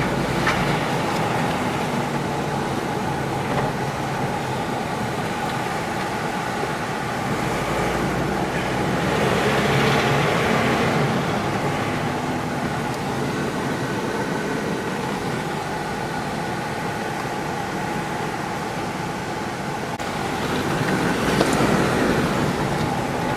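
A road vehicle carrying passengers, with its engine running and road noise steady as it drives. The noise swells louder about ten seconds in and again near the end.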